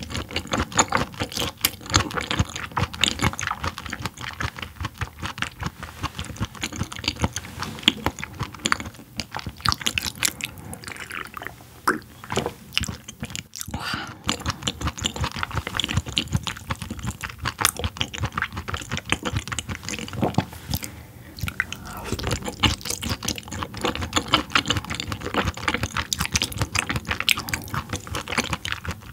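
Close-miked chewing of raw yellowtail sashimi: a dense run of small mouth clicks that briefly drops off about halfway through.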